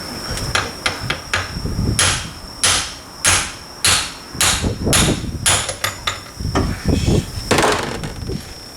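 Hammer blows on the steel parts of a Suzuki Carry rear differential during teardown to reach its failed pinion bearing. A few light taps come first, then a run of heavier ringing strikes about every half second. Crickets chirp steadily in the background.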